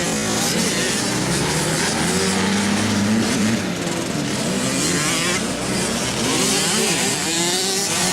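Several motocross bikes racing on the track, their engines revving up and down as the riders work the throttle and shift, the pitch rising and falling.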